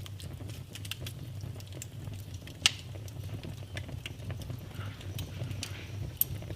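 Wood fire in a fireplace crackling, with many small irregular pops over a steady low rumble; one loud pop about two and a half seconds in and another near the end.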